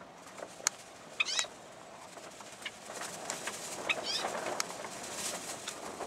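Cage birds chirping: two short chirps, one about a second in and one about four seconds in, among scattered sharp clicks, with a rustling noise building in the second half.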